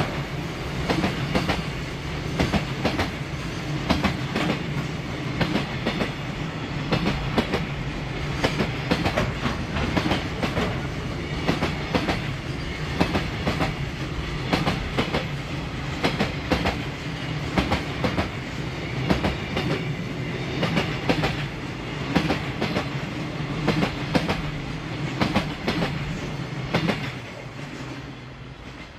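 Koki container flatcars of a long freight train rolling past, their wheels clacking over the rail joints again and again in an ongoing rhythm. The sound drops away near the end as the last wagon goes by.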